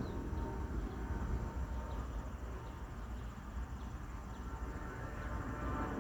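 Outdoor ambience: a steady low rumble, like wind on the microphone or distant traffic, with a few faint, short high chirps.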